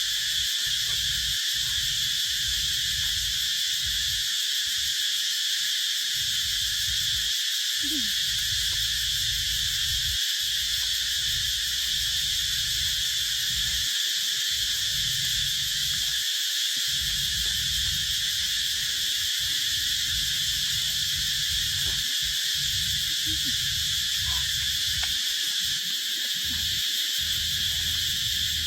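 Insects singing in a steady, unbroken high chorus, with a low rumble that comes and goes underneath.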